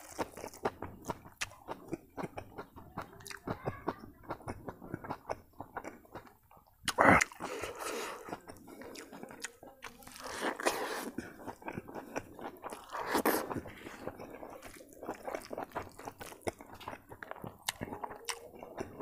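Close-up chewing and eating sounds of a person eating rice and omelet curry with his fingers: many small wet mouth clicks, with a few louder bites about seven, eleven and thirteen seconds in.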